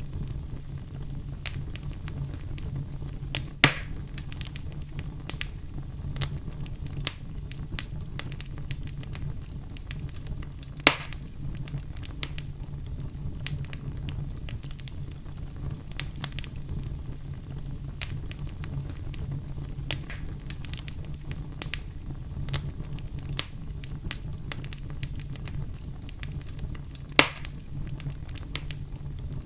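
Fire crackling in a fireplace: a steady low rumble with frequent small crackles, and three louder pops about 3.5, 11 and 27 seconds in.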